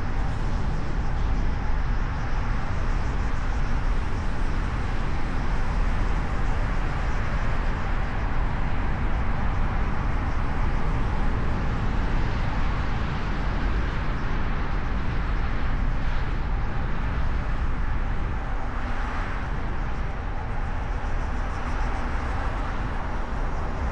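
Steady road and wind noise from a car driving along city streets, picked up by a camera mounted on the car's hood, with a deep, even rumble.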